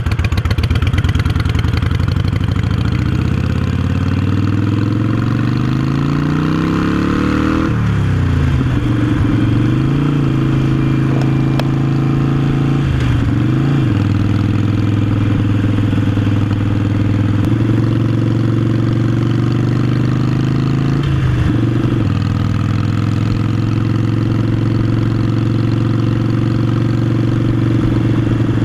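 Harley-Davidson Iron 883 V-twin with Vance & Hines Short Shots Staggered exhaust, riding off: the engine note rises steadily for about eight seconds, drops at gear changes a few times, then holds steady at cruising speed.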